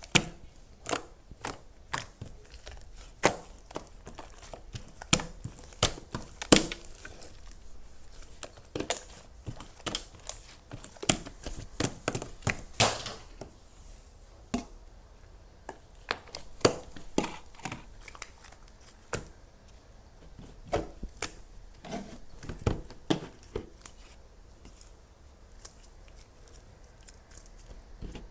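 Crisp crinkling and crackling of something crumpled or torn by hand, in irregular sharp snaps that thin out over the last few seconds.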